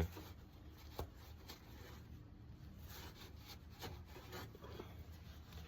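Faint rubbing and rustling of a rag wiping spilled motor oil off the engine, with a single light click about a second in.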